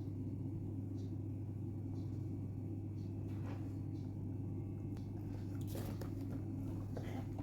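A steady low electrical or mechanical hum, with faint ticks about once a second and a little soft rustling near the end.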